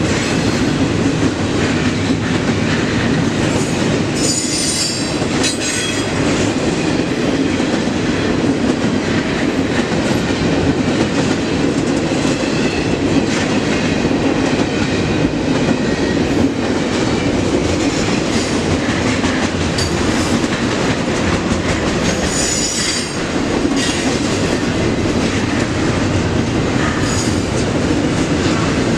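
Freight train cars rolling past in a steady, loud rumble, with brief high-pitched wheel squeals about four to six seconds in and again a little over twenty seconds in.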